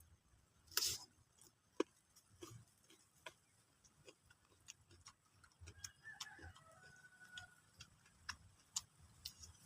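Faint, irregular crunching and clicking from chewing raw papaya rujak, with one louder crunch about a second in.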